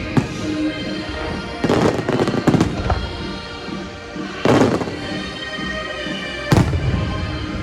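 Aerial fireworks bursting in a loose series: a quick cluster of bangs around two seconds in, then single bursts about halfway and near the end, with music playing underneath.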